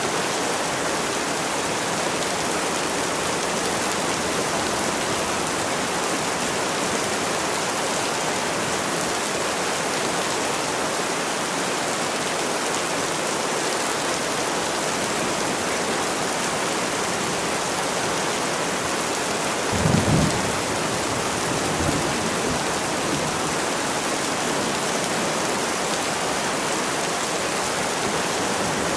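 Steady heavy rain falling, an even hiss. About two-thirds of the way through there is a short low rumble, with a fainter one a couple of seconds later.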